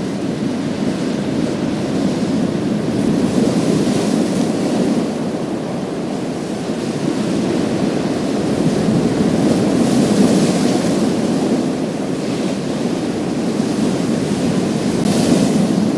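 Sea waves breaking and washing over a pebble beach: a continuous rumble of surf with hissing surges about 4, 10 and 15 seconds in as waves break and drag back over the stones.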